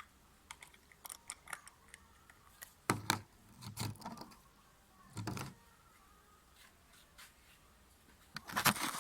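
Handling noise of washing-machine drain-valve parts being fitted by hand: scattered light clicks and taps, with louder knocks about three, four and five seconds in and a quick cluster of knocks near the end.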